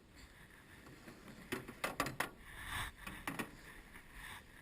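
Canoe paddles knocking against the canoe's hull several times in quick succession, with water splashing as the paddlers back-paddle to stop.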